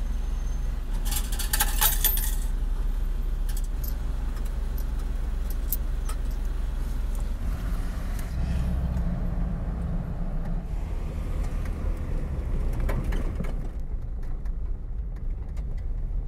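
Jeep Wrangler Unlimited engine idling, heard inside the cab, with a short metallic jingle of coins at the toll machine about a second in. From about seven seconds the engine pulls away and runs under load.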